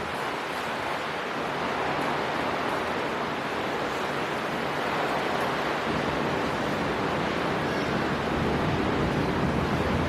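Storm wind blowing over the sea with surf breaking, a steady rush of noise that swells and deepens over the last few seconds.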